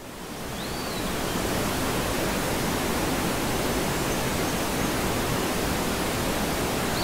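Steady rushing of water spilling over shallow rock ledges, a rushing hiss that fades in over the first second or so and then holds even.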